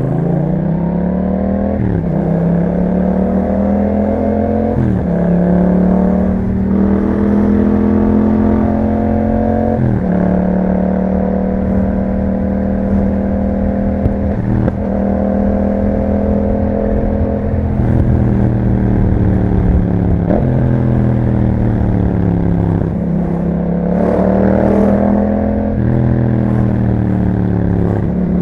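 A 2021 Yamaha MT-07's 689 cc parallel-twin engine running through an Akrapovic exhaust while riding. The engine note climbs and then drops sharply several times as it shifts through the gears, with steadier stretches of cruising in between.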